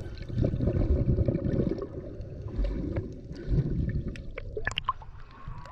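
Sea water sloshing and gurgling close to the microphone, with a few sharp clicks near the end.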